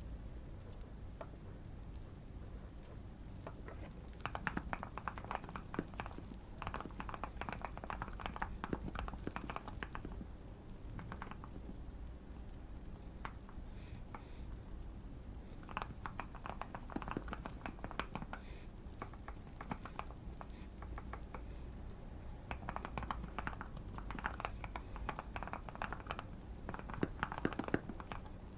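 Typing in bursts on a Keychron Q1 mechanical keyboard modded with tape and foam for a thocky keystroke sound, with pauses of a few seconds between runs of keystrokes. A soft fireplace crackle and a low steady hum lie underneath.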